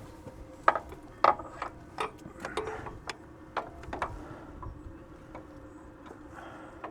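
Irregular clicks and metallic knocks of tools or metal parts being handled during tractor repair work, a dozen or so, mostly in the first four seconds and sparser after.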